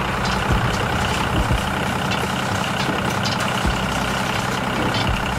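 A heavy vehicle engine running steadily, with a few short low thumps.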